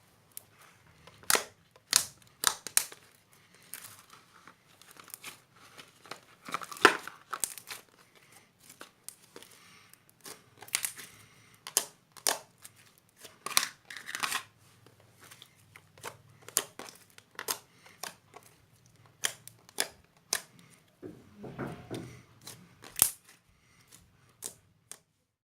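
Slime being squished and pulled by hand, making irregular sticky pops and crackles, a few every second.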